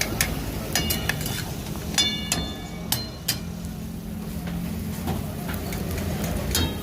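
Metal spatula clanging and scraping against a karahi (wok) as the dish is stirred. The strikes ring briefly and come thickest in the first three seconds or so, then give way to a steadier low background.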